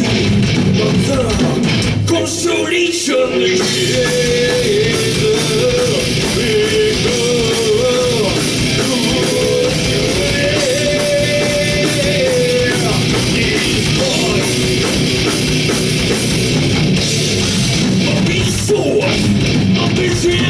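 Heavy metal band playing live, loud distorted electric guitars and drums, with a held melodic lead line over the band through the middle stretch.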